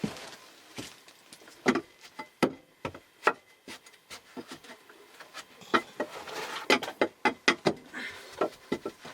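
A run of irregular sharp knocks and taps with some rubbing between them, like wooden things being handled and knocked about, coming thicker in the second half.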